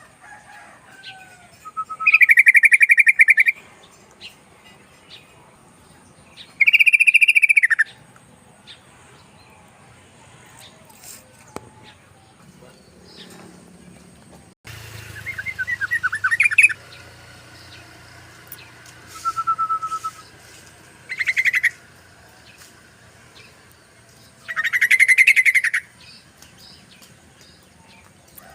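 Yellow-vented bulbul (trucukan) singing in loud bouts of rapid chattering notes, about five bouts each a second or two long. Softer short whistles come between the bouts.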